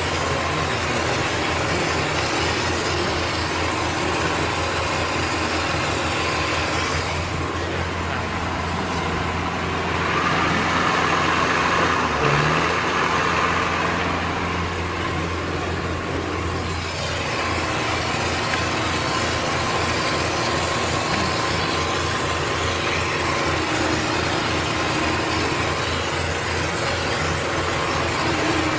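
Engine running steadily with a low, even pulse, rising a little in the middle as more noise comes in, then settling back.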